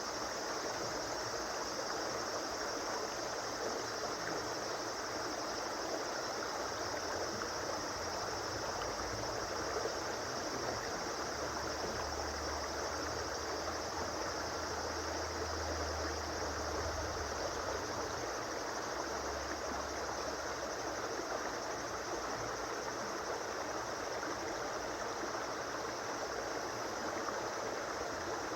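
Steady, continuous rush of a flowing river or stream.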